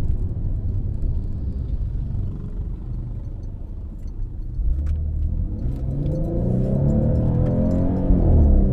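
Porsche 958 Cayenne V6 with the factory sports exhaust in sport mode: a low rumble at first, then from about halfway the exhaust note climbs steadily in pitch under acceleration, with a brief dip near the end at an upshift. It is a higher-pitched, rising note rather than a deep V8 burble.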